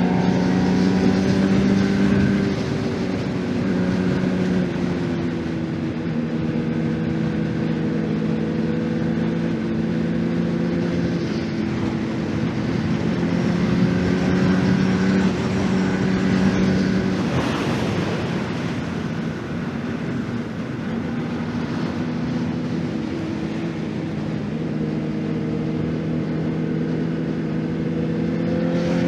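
2024 Honda CBR600RR inline-four engine under way, its revs rising and falling as the bike is ridden through bends. About two-thirds of the way through, the engine note fades briefly under a rush of noise, then comes back.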